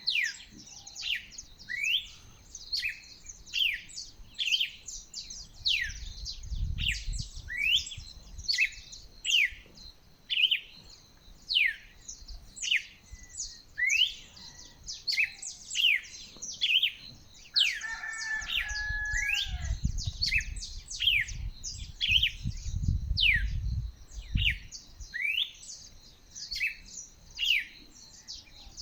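Birds singing at dawn: one bird repeats sharp, high, downward-sweeping whistled notes over and over, about one to two a second, over a steady high background hum. Around two-thirds of the way in, a lower falling call sounds briefly, and a low rumble comes and goes twice.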